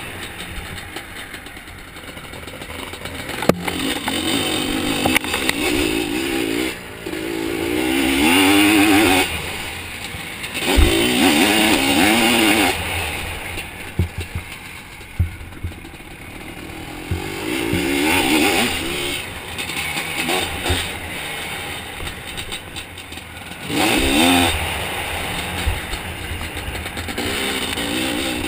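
Zabel 700 two-stroke sidecar motocross engine, heard onboard, revving hard in repeated bursts that rise and fall as the throttle opens and closes. A few sharp knocks and clatter come through as the outfit hits bumps.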